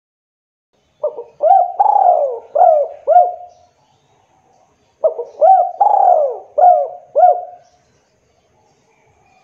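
Spotted dove (tekukur) cooing: two phrases of about five hooting coo notes each, a few seconds apart.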